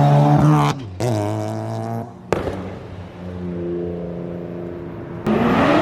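Car engines and exhausts running in short clips that cut off abruptly. A steady exhaust drone is followed by a brief rise in pitch, then a steadier, lower drone. Near the end a sudden loud exhaust rush with crackling and popping sets in.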